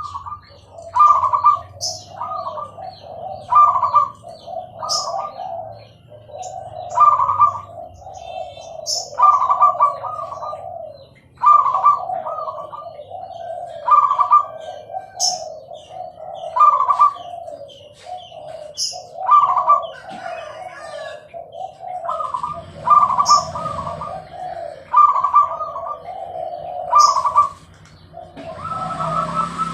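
Zebra dove (perkutut) singing: its rapid rolling cooing phrase repeated over and over, one every one to two seconds. A steady hiss comes in near the end.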